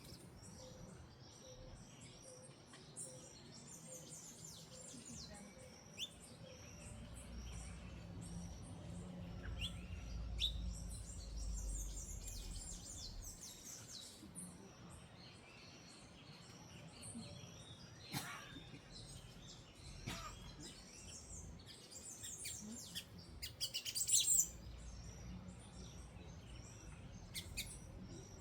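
Small birds chirping and twittering repeatedly, with a denser, louder run of high chirps shortly before the end. A low rumble sits underneath in the first half, and there are two sharp clicks in the second half.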